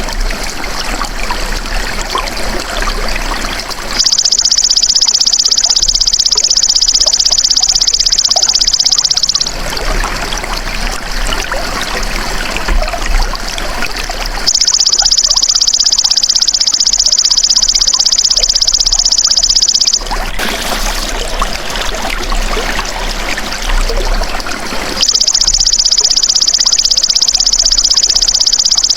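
Golden grasshopper (belalang emas) singing in long, high, buzzing trills, three times, each lasting about five seconds with pauses of about five seconds between. A steady trickle of running water carries on underneath.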